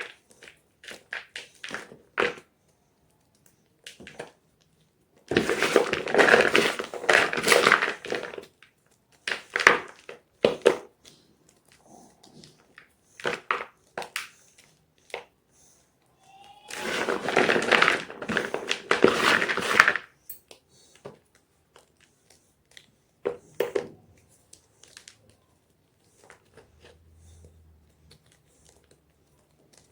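Gym chalk being crunched and crushed: scattered dry crackles and snaps, with two long runs of dense crunching about three seconds each, a few seconds in and again past the middle.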